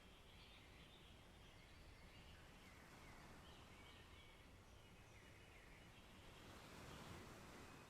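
Faint birds chirping and calling over a soft, steady forest hiss, with a gentle rush of a small wave swelling and fading about seven seconds in.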